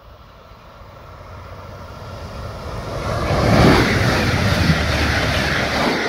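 Class 429 electric multiple unit passing close at speed: a rush of wheel and air noise that swells from about a second in, is loudest at about three and a half seconds, and stays loud until it falls away near the end.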